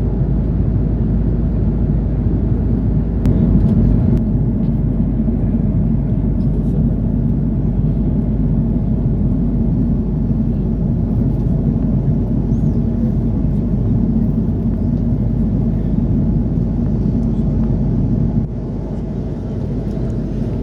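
Steady low rumble of cabin noise aboard an Airbus A330-300 airliner. It drops slightly in level near the end.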